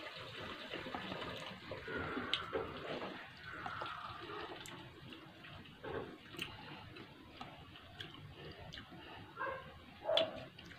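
Quiet wet chewing and mouth sounds of eating juicy dalandan (sour orange) segments, with a few small sharp clicks and soft sounds of segments being pulled apart by hand.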